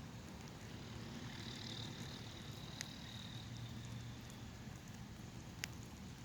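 Outdoor ambience in light sprinkling rain: a steady low rumble under a soft hiss, with two sharp drip clicks and a faint high-pitched sound for a few seconds in the first half.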